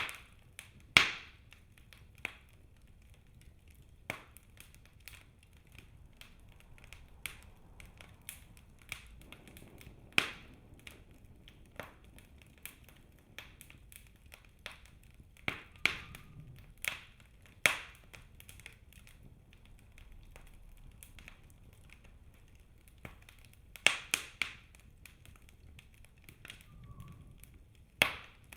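Wood fire burning in a fireplace, crackling with irregular sharp snaps and pops a few seconds apart over a faint low rumble of the flames. The loudest snaps come about a second in, around the middle, and in a quick cluster about three quarters through.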